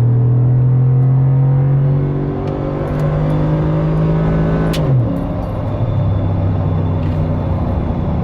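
Ford F-150's 5.0 V8 through a 4-inch MBRP cat-back exhaust, heard from inside the cab while accelerating: the engine note climbs slowly, then drops sharply on an upshift about five seconds in and settles lower. Tyre road noise runs underneath.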